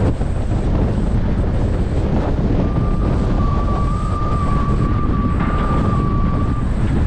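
Gale-force wind buffeting the camera's microphone, a loud steady rumble that covers everything, with a thin steady high tone sounding from about two and a half seconds in until near the end.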